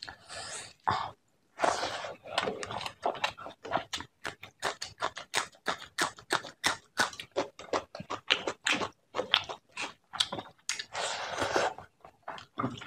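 Close-miked eating sounds of rice and fish head curry eaten by hand: steady, rhythmic chewing at about three to four chews a second, with a few longer, noisier mouth sounds near the start and again near the end.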